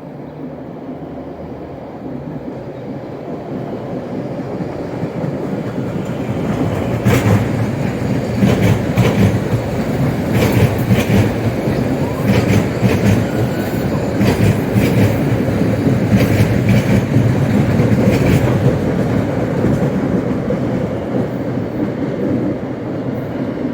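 A train passing close by. Its rumble builds, then its wheels clack repeatedly over rail joints for about ten seconds before the sound eases off near the end.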